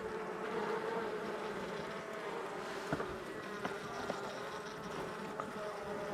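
Honeybees buzzing steadily as the hive is opened, a held drone with a few faint clicks from the hive parts being handled.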